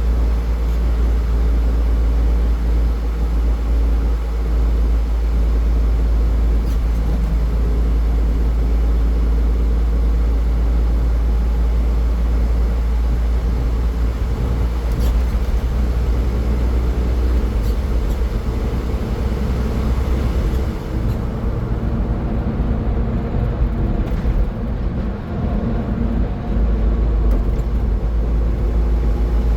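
Car driving at highway speed: a steady low rumble of engine and tyre noise. For a few seconds about two-thirds of the way through, the hiss drops away and the rumble wavers.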